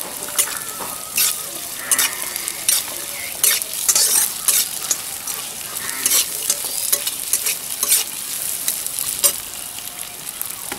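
Fresh green chickpeas frying and sizzling in hot mustard oil in a metal kadhai, stirred with a metal spatula that scrapes and clicks against the pan again and again.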